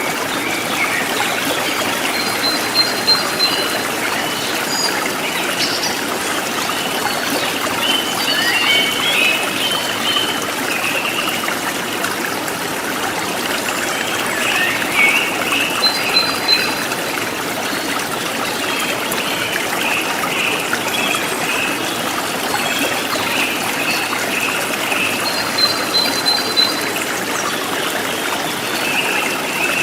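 River water flowing and trickling steadily, with a few short high-pitched tones over it now and then.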